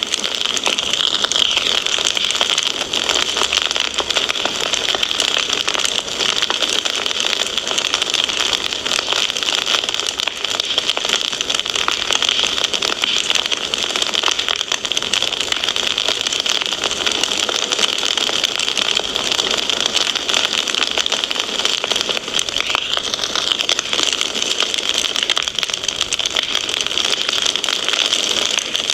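Wood fire crackling steadily: a dense stream of small pops and snaps over a steady hiss.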